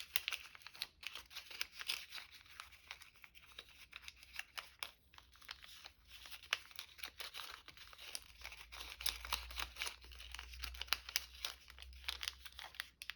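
A folded paper strip crinkling and rustling in the hands as a knot in it is worked and pulled tight, a steady run of small crackles.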